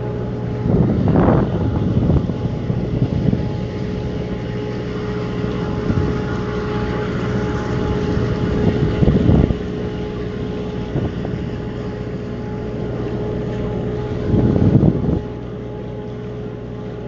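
Boat engine running at a steady pitch under a constant rush of wind and water, with a few louder surges of rushing noise; the overall level drops a little near the end.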